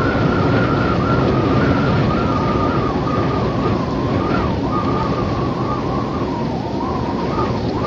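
Wind ambience: a steady rush with a whistling tone that wavers up and down throughout.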